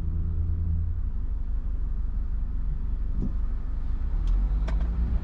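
Car driving: a steady low rumble of engine and road noise, with a few light ticks in the second half.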